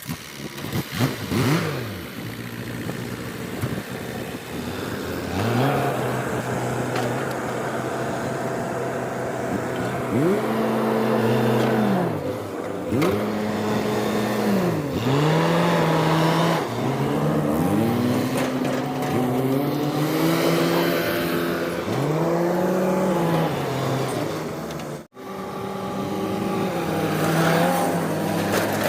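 Diesel engine of a backhoe loader revving up and down again and again as it works under load, its pitch rising and falling every second or two. The sound cuts out for a moment near the end.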